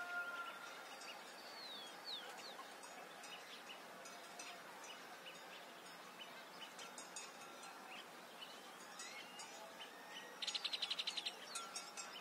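Birds chirping over a steady background hiss, with short falling chirps and a brief, fast buzzy trill near the end.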